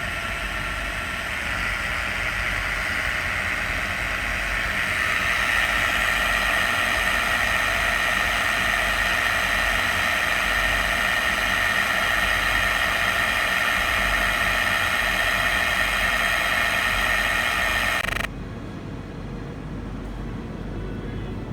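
Air-conditioning service equipment with an electric motor running steadily, a hum with a strong whine around 2 kHz. It grows louder about five seconds in, then drops suddenly to a quieter hum near the end.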